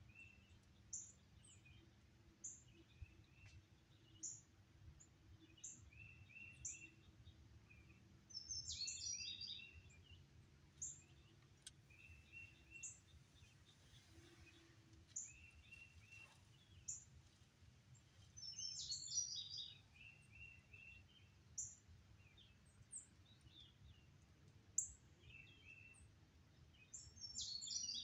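Several songbirds calling, faint: a short, jumbled song repeats about every nine seconds, high single notes come every second or two, and quick lower chirps sit among them. A faint low rumble runs underneath.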